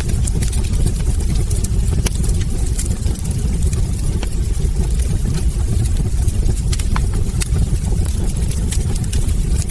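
Wood logs burning in a fireplace: a steady low rumble of flame with scattered sharp crackles and pops from the wood, a few of them louder.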